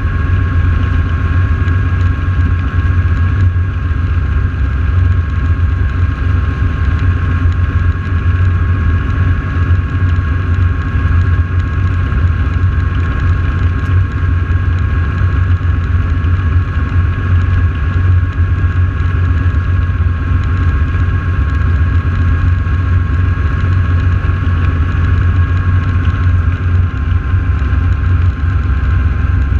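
Radial engines of North American T-6 Texan aircraft running steadily on the ground after start-up, a deep even drone with a thin steady whine above it.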